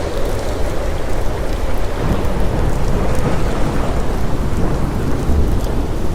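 Thunderstorm: steady heavy rain with a continuous low rumble of thunder.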